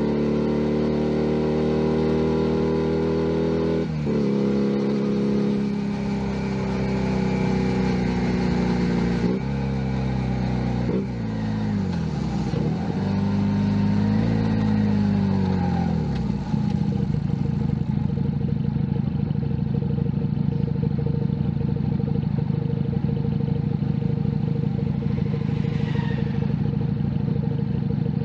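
Junak M11 Cafe 125 cc single-cylinder motorcycle engine pulling through the gears, its pitch dropping sharply at each shift. About twelve seconds in it slows down and settles into a steady, slightly clattery idle.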